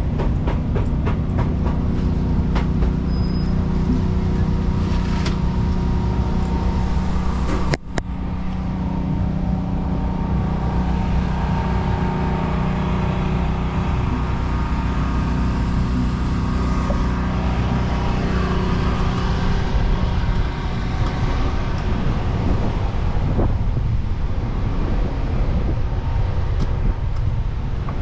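City street traffic: motor vehicles running steadily close by, their low engine drone dominant, with a brief sharp break about eight seconds in.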